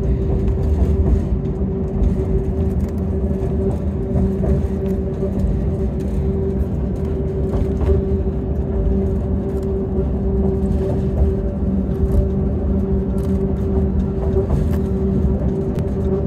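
The Yellow Train, a narrow-gauge electric train, running steadily: a continuous low rumble of wheels on track with a steady hum.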